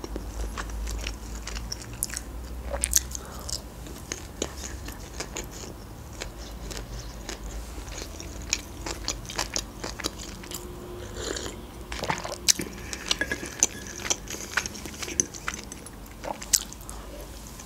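A person chewing food, with many small, sharp mouth clicks throughout.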